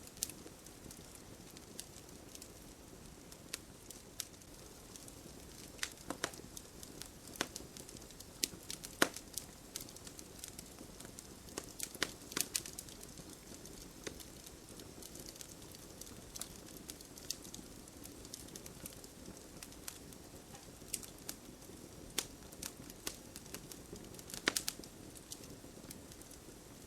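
Campfire crackling, with sharp pops at irregular intervals over a low steady hiss of burning wood; a few louder pops stand out.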